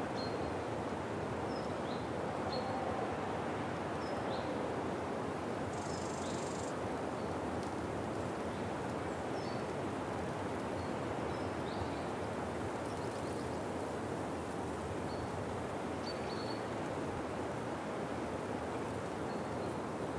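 Steady outdoor ambient noise with short, high bird chirps scattered through it, and a brief hiss about six seconds in.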